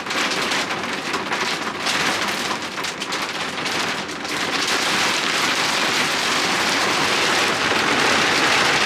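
Heavy rain beating down on a sailing catamaran, a dense, steady downpour that grows heavier about halfway through.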